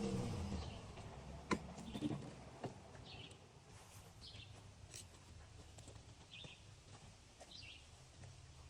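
Tank 200 motorcycle scooter engine dying away within the first second as it is shut off, leaving quiet outdoor background. Short bird chirps recur over it, with a few sharp clicks.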